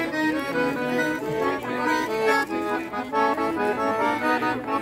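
Accordion playing a tune of quick, short notes, several notes sounding at once.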